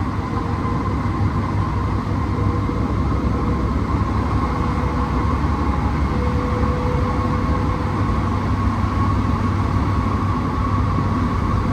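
Cabin sound of an Alstom NS-16 metro train running between stations: a steady rumble of the wheels on the rails, with a steady high whine over it.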